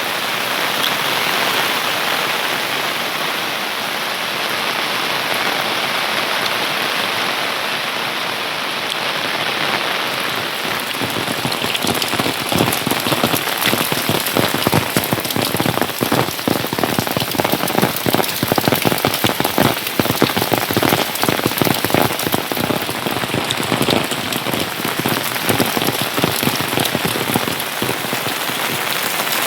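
Steady rain falling, with many close, sharp drop hits setting in about eleven seconds in.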